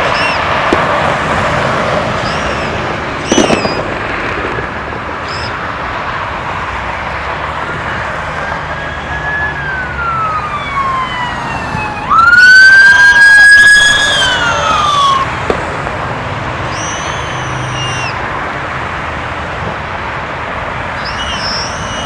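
Police siren wailing: a falling glide about eight seconds in, then a loud rise held for about three seconds before it falls away, over steady traffic noise. A few short high chirps come and go.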